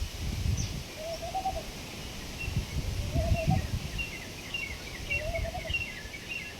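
Birds outdoors: a short, low call repeated about every two seconds, with quicker, higher chirps of small birds joining from about halfway in. A low rumble comes and goes underneath.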